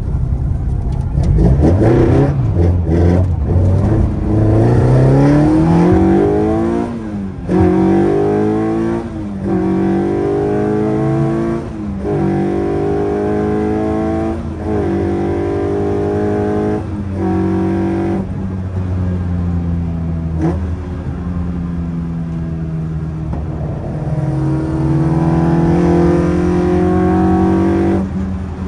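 Opel Kadett C's C20XE 2.0-litre 16-valve four-cylinder engine heard from inside the cabin under hard acceleration, climbing in pitch in repeated pulls, each broken by a short dip as the driver changes gear. About two-thirds of the way through it settles to a steadier cruise, then climbs again and drops off near the end.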